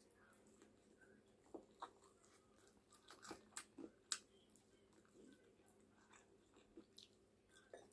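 Close-up chewing and biting of fried chicken: faint, wet mouth clicks and soft crunches, bunched together between about one and a half and four seconds in, then sparser.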